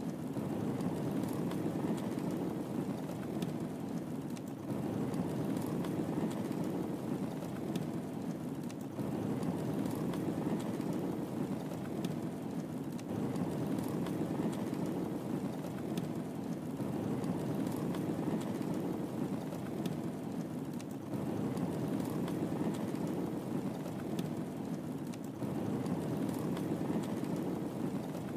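Wood fire crackling in a fireplace: a steady low rushing of the flames with small sparse crackles and pops over it, repeating in an even loop about every four seconds.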